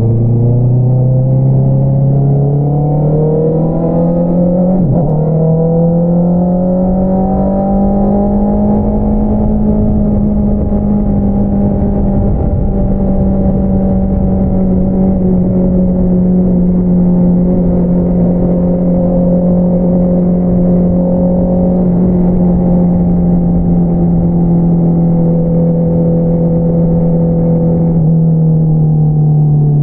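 2022 Honda CBR650R's inline-four engine through an Akrapovič single-outlet exhaust, under way. The engine note climbs over the first several seconds with a brief break about five seconds in, holds steady through the middle, and drops near the end as the throttle eases off.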